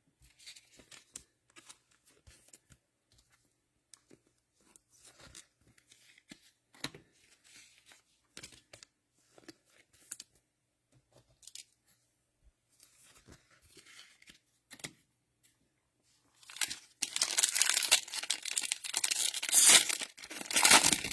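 Faint light clicks and rustles of trading cards being handled, then, from about 16 seconds in, a loud crinkling tear of a plastic cello pack wrapper being ripped open.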